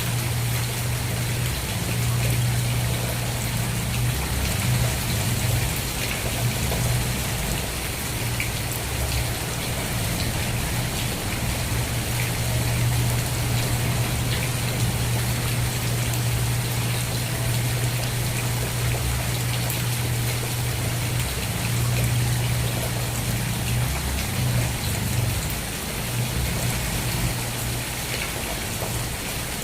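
Steady rain falling, an even dense patter of drops with a steady low rumble underneath.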